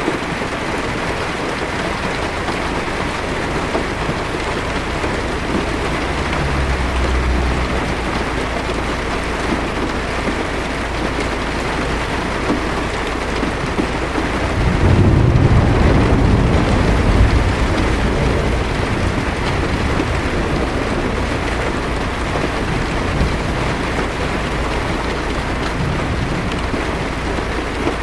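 Heavy rain falling steadily on a car's roof and windshield, with a low rumble of thunder swelling about halfway through and lasting a few seconds.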